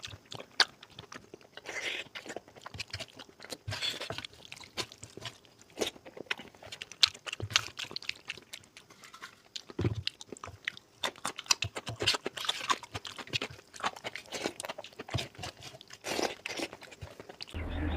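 A person chewing and biting food close to the microphone, mukbang-style, on oily mutton curry. The chewing makes a dense, irregular run of wet clicks and crunches.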